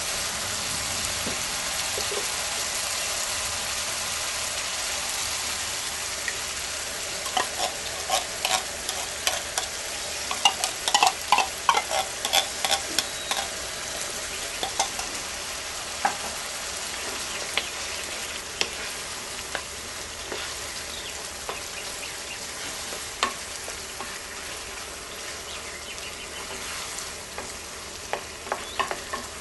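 Ground meat, onion and peppers sizzling steadily in a frying pan while being stirred, with a run of sharp clacks of a utensil against the pan in the first half and a few more near the end. The sizzle eases slightly in the second half.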